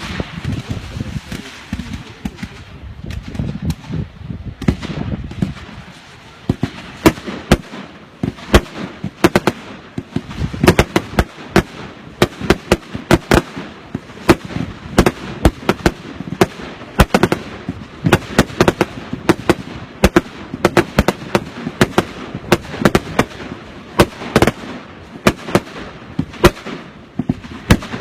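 Fireworks going off: a long run of sharp bangs and cracks that grows denser about six seconds in, several a second, like a barrage cake firing shot after shot.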